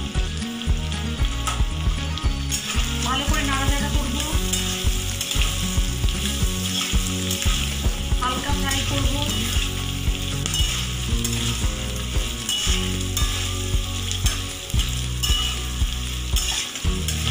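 Potatoes and sliced onions sizzling in hot oil and butter in a kadai, with a metal spatula stirring them and repeatedly scraping and knocking against the pan.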